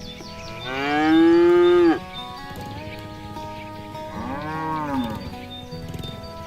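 Cow mooing twice: a long, loud moo about half a second in that ends abruptly, then a shorter, quieter moo about four seconds in, over soft background music.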